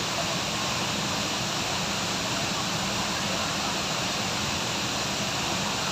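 Waterfall pouring with a fairly strong flow: a steady, unbroken rush of falling water.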